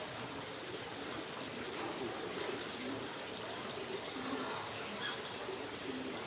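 Short, sharp, high bird chirps, the two loudest about one and two seconds in and fainter ones scattered after, over a steady background hiss.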